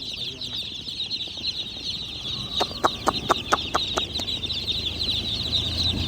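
A crowd of tiny black and white chicks peeping constantly in a dense, high-pitched chorus. A quick series of about seven short, sharp sounds comes through it about halfway through.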